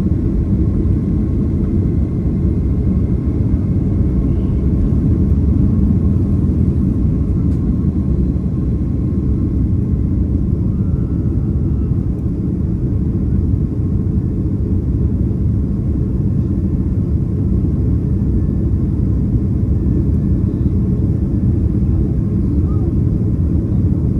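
Steady low cabin roar of a Boeing 767-300ER's engines and airflow, heard from a main-cabin seat as the airliner climbs after takeoff, with a faint steady whine above it.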